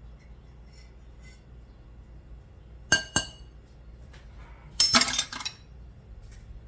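Hard kitchenware knocking together: two ringing clinks about three seconds in, then a short rattling clatter about two seconds later.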